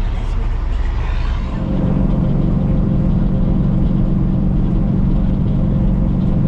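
Semi truck's diesel engine running, a steady low drone that grows louder about a second and a half in and then holds as the truck pulls.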